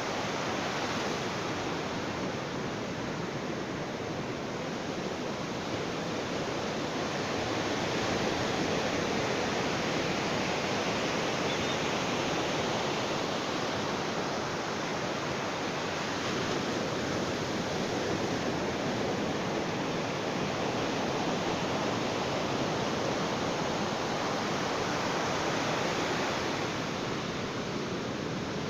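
Ocean waves breaking on a beach: a continuous wash of surf that swells and eases slowly every several seconds.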